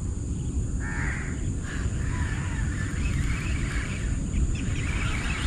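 Birds calling repeatedly, short calls coming thicker into a busy chatter near the end, over a steady low rumble.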